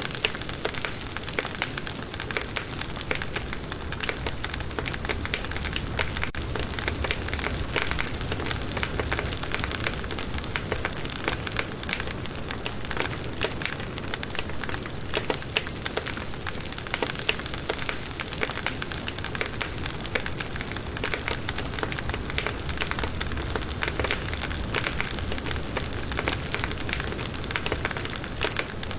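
Firewood burning in a campfire: a steady dense crackling with many small pops, over a low rumble of the flames.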